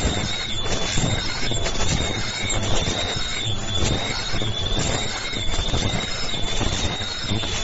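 High-speed all-servo KF94 2D face-mask making machine running: a steady mechanical clatter with a high, slightly wavering whine.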